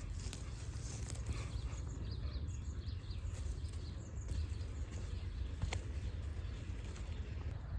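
Steady low outdoor background rumble with a few faint ticks, one clearer about two-thirds of the way through.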